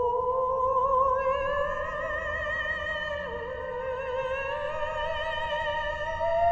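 Ambient music: a wavering, vibrato-laden pitched tone slowly glides upward over steady held drone tones, dips briefly about three seconds in, then climbs again and settles onto a held tone near the end.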